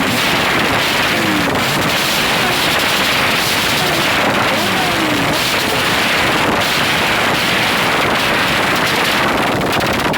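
Motorcycle engines running under heavy wind rushing over the microphone, with a few brief falling engine notes.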